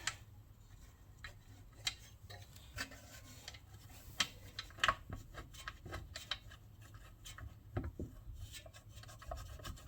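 Faint, scattered light clicks and scrapes of a bolt being worked against the mounting while it is fished for its hole, securing the fuel tank on a Honda GX110 engine.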